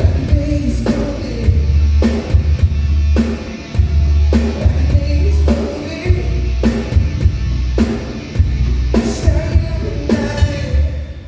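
Live rock/pop band playing a song with singing, over a steady drum beat with a hit about every second. The music stops right at the end.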